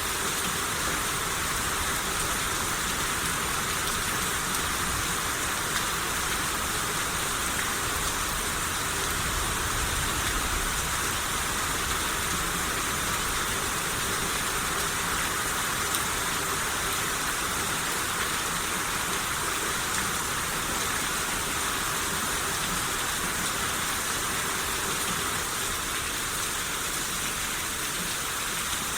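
Steady rain falling, a constant even hiss of drops on surfaces.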